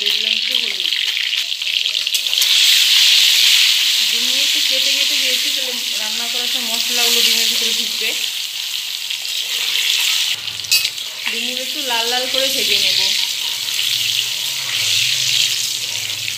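Hard-boiled eggs frying in hot oil in a steel kadai, with a steady sizzle and a metal spatula stirring and scraping against the pan; one sharp clink about ten seconds in.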